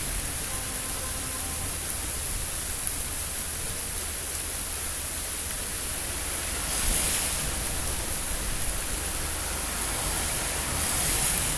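Steady hiss of rain during a thunderstorm, swelling briefly twice, about seven and eleven seconds in.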